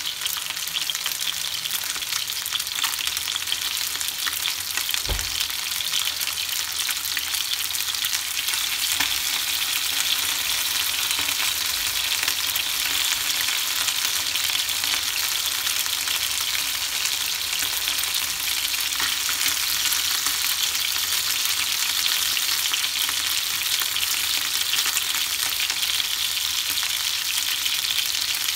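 Chicken wings sizzling in oil in a nonstick frying pan: a steady frying hiss, with one low thump about five seconds in.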